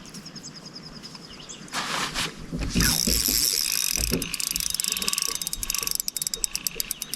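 Fishing reel ratcheting: a loud rushing hiss, then a fast, steady run of clicks in the second half.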